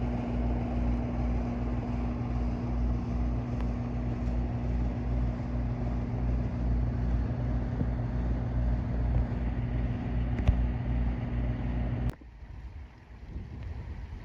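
Steady mechanical hum with a pulsing low rumble, cutting off abruptly about twelve seconds in.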